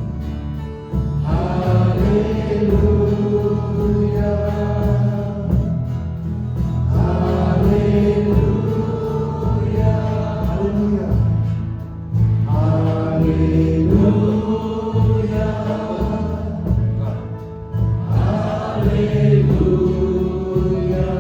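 Worship music: a congregation or choir singing together over a band, in held phrases with a steady low bass underneath.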